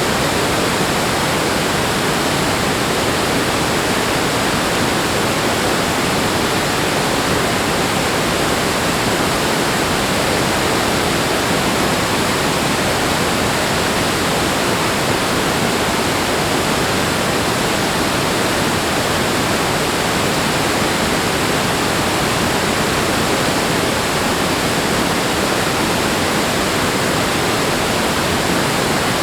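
Rushing water, a steady, unbroken rush with no rise and fall of surf.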